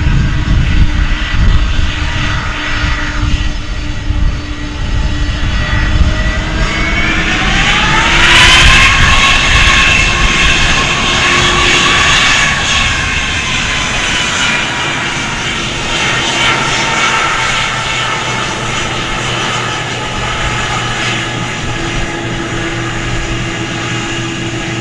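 Jet aircraft engines at an airport: a low rumble, then a whine that rises in pitch about seven seconds in as the engines spool up, holds, and slowly eases off.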